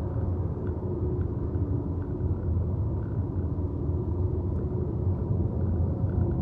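Steady low tyre and road rumble of an electric Tesla Model Y driving at speed, with no engine note, and faint sustained tones over it.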